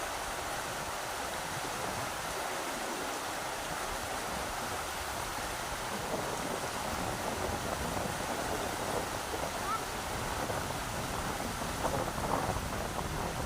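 A river rushing steadily, with gusts of wind rumbling on the microphone from about halfway in.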